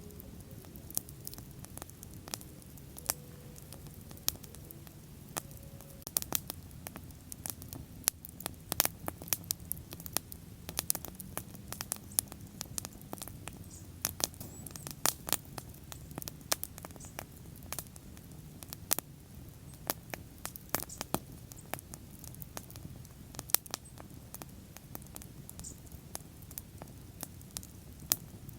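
Wood bonfire crackling: irregular sharp pops and snaps, several a second at times, over a steady low rumble of burning.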